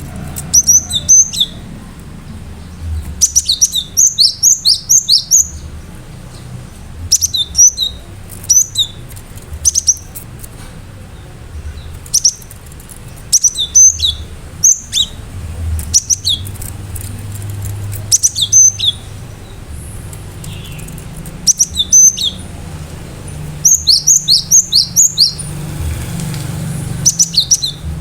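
Cinereous tit (gelatik batu) singing: loud, sharp, high notes fired in quick repeated phrases, with short pauses between the bursts, over a steady low hum.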